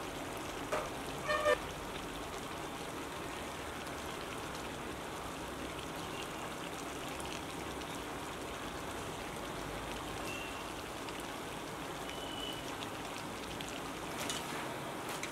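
Steady crackling sizzle of a large batch of chicken frying in hot oil. About a second in comes a short ringing metal clank, like a utensil knocking the pan.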